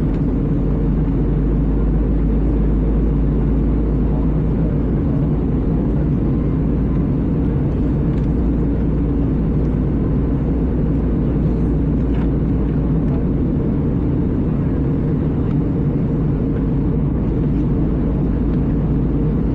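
Steady cabin noise inside an Airbus A320 airliner: a constant low rumble of engines and airflow, even in level throughout.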